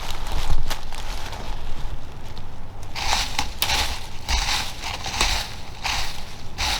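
Footsteps crunching through dry leaf litter and brush, in uneven groups that grow louder about halfway through, with wind rumbling on the microphone.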